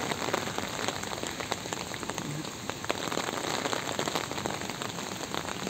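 Steady rain falling, an even hiss dotted with many small, sharp drop hits.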